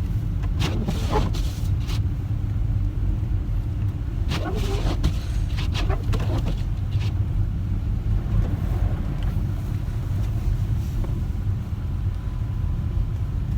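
A car driving on a snowy road, heard from inside the cabin: a steady low rumble of engine and tyre noise, with a few brief sharp noises in the first two seconds and again between about four and six seconds in.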